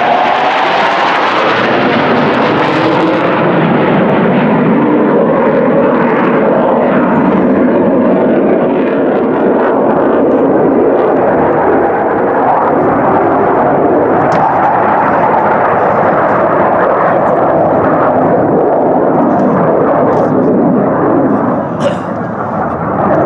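Airplane engine noise, loud and continuous as an aircraft passes, its pitch falling in the first second or so.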